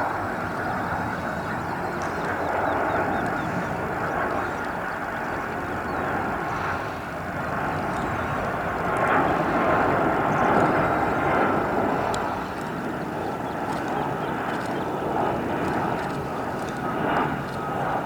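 Aircraft engines running: a steady rushing drone with a faint high whine, swelling and easing slightly.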